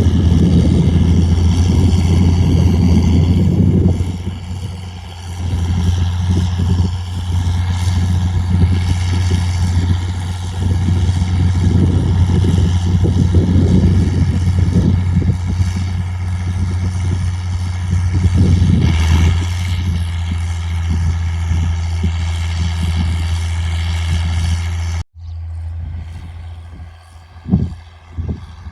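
A straight-piped John Deere 4630 tractor's six-cylinder turbo diesel is running steadily and loudly under load while pulling a hiller. About 25 seconds in, the sound drops off abruptly and turns quieter, with a few sharp knocks.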